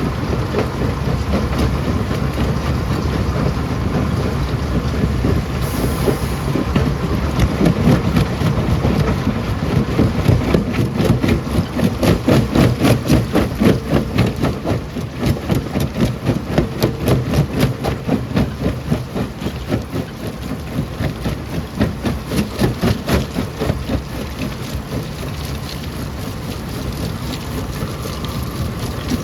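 Stone crusher running and crushing rock: a loud, steady mechanical grinding that takes on a rhythmic pulsing, a few beats a second, through the middle stretch.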